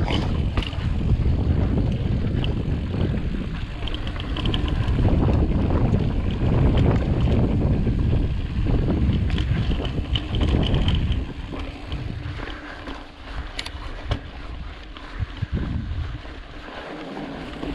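Wind rushing over the microphone and a mountain bike's tyres rumbling over rock as it rides, loudest for most of the stretch and easing off about eleven seconds in.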